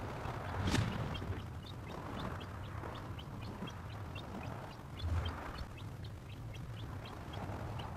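Birds chirping, short high notes repeating several times a second, over a steady low rumble. One sharp click comes about a second in.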